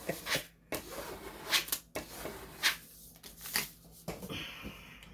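Packaging being handled and opened: irregular rustling and crinkling with a few light clicks.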